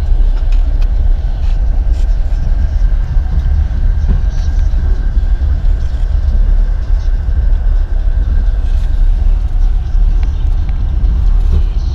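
Passenger train running at speed, heard from inside an open-plan sleeper carriage: a steady low rumble with scattered light clicks and rattles.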